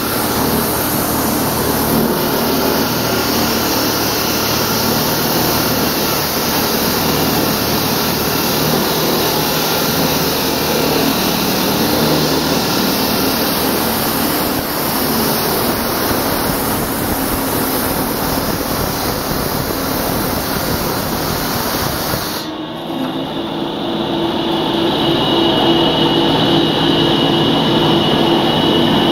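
Loud, steady machine noise of diamond concrete cutting. About three quarters of the way through it cuts abruptly to a different steady machine sound with a thin high whine.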